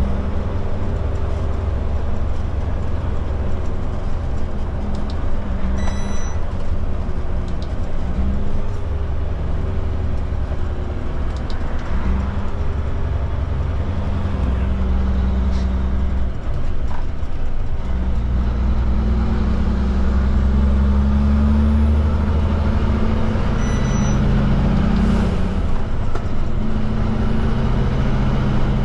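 Kenworth K200 cabover truck's Cummins diesel engine running under load, its pitch stepping up and down several times.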